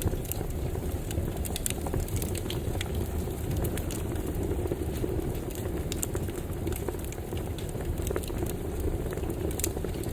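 Campfire burning: a steady low rumble of flames with irregular crackles and pops from the burning wood.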